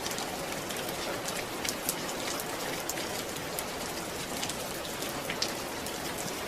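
Steady rain falling, an even hiss with scattered sharp drips of individual drops landing on a surface.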